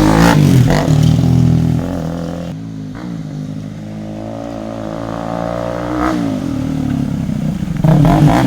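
KTM RC 200's single-cylinder engine running through an aftermarket Akrapovic full-system exhaust and being revved. The revs fall away from a rev just after the start and settle low, rise a little around six seconds, then jump sharply with a throttle blip near the end.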